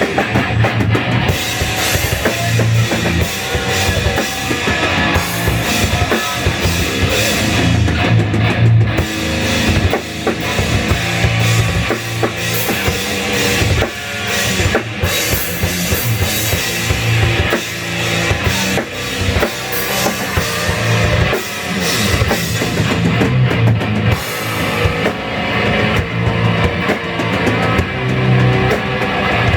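Live improvised southern metal jam, loud and continuous, with a drum kit pounding throughout.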